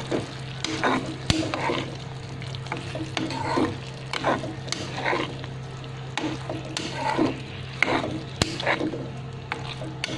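Spatula stirring chicken pieces in a hot kadai, scraping against the pan in repeated strokes about once a second, over a light sizzle of frying, with a few sharp clicks of utensil on metal.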